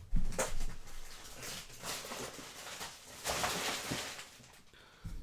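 Trading cards and pack wrapper being handled: a few sharp clicks early on, then a stretch of rustling as the cards slide past one another about three seconds in.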